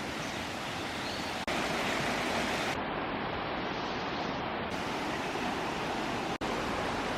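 Steady rushing water, like a flowing stream, heard through a few short clips joined by sudden cuts about a second and a half in and again near the end.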